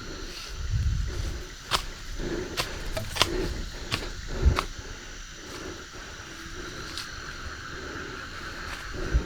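Outdoor ambience: a steady high insect drone, with a few sharp clicks or snaps and soft low rumbles.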